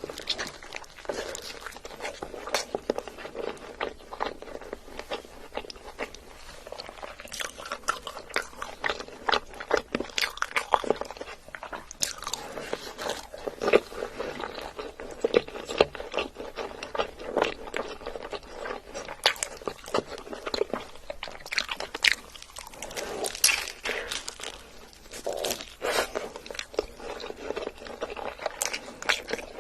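A person chewing and biting food with wet, crunchy mouth sounds: irregular crackles and clicks with no pause.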